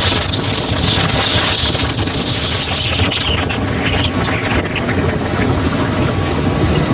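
Motorcycle running while being ridden: steady engine and rushing air noise, with the high hiss easing a little about three seconds in.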